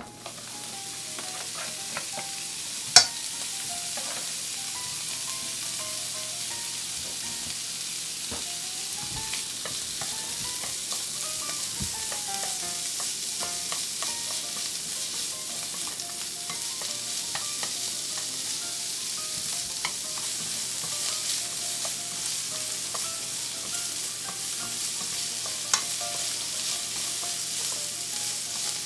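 Food frying in oil in a pan, a steady sizzle that builds over the first second, with stirring and two sharp knocks of a utensil on the pan, about three seconds in and near the end.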